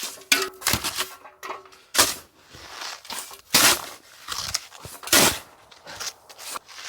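Snow shovel chopping into and scooping deep snow with an icy crust layer, giving a series of sharp crunches and scrapes, the loudest about two, three and a half, and five seconds in.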